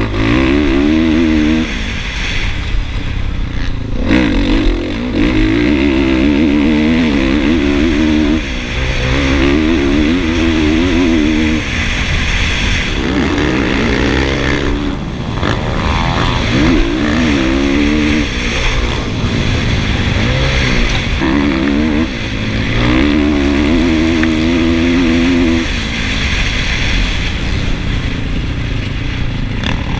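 Honda motocross bike engine ridden hard, heard up close on the bike. The revs climb and fall off again every two to three seconds, over a steady rush of noise.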